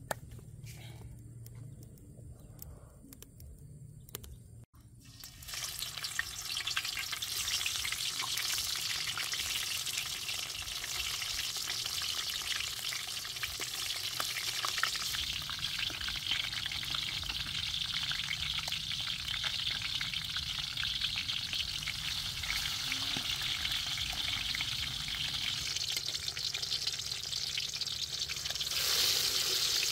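Bell pepper rings frying in hot oil in a metal pan, a steady sizzle that starts about five seconds in. Near the end the sizzle grows louder as an egg is cracked into one of the rings.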